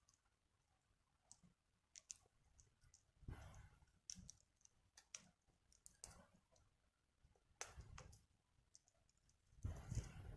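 Wood fire crackling in a Picogrill 398 fire pit: scattered sharp pops and ticks. There are a few soft low rushes of noise, the longest near the end.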